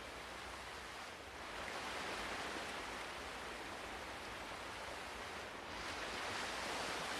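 Ocean surf: a steady hiss of waves that swells twice, about a second and a half in and again near the end.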